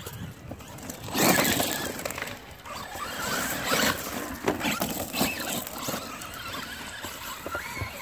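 Traxxas Rustler VXL RC trucks' brushless motors whining up and down in pitch under changing throttle as the wheels spin in mud, with a loud rush of noise about a second in.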